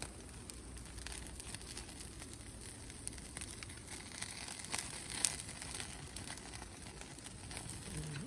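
Wood campfire crackling, with scattered small pops and one sharper pop about five seconds in.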